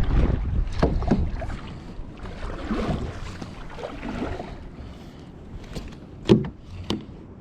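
Kayak on the water: splashing and knocks against the hull, with wind rumbling on the microphone that fades over the first two seconds, and two sharp knocks near the end.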